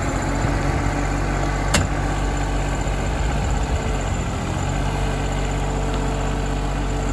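John Deere 2210 compact tractor's small diesel engine running steadily at idle, with one sharp metallic knock a little under two seconds in.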